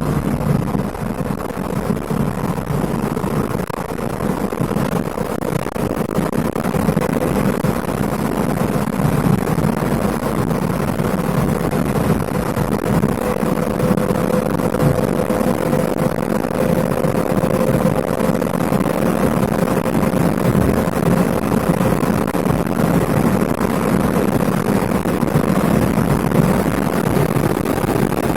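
Lada Priora's 1.6-litre 16-valve engine running while driving, heard from inside the cabin: steady engine and road noise, with a faint whine in the middle that creeps slightly up in pitch.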